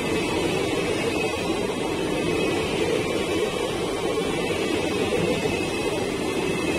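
Steady rumble of wheels on rails as a line of passenger coaches runs past close by.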